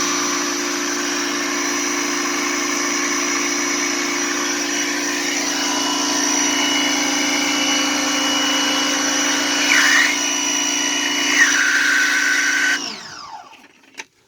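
An electric motor runs steadily with a constant hum and a hiss, then is switched off near the end and spins down with a falling pitch. Two brief chirps sound shortly before it stops.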